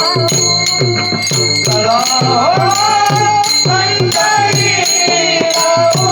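A girl singing a Marathi abhang in a sweet, ornamented melodic line, accompanied by a steady drum beat and ringing, jingling hand cymbals.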